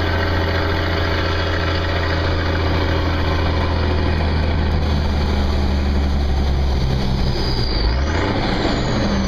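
M342A2 military dump truck's LDT-465 turbocharged multifuel engine running steadily under a half load. About eight seconds in the engine note shifts, and a high turbo whistle rises briefly, then slides down.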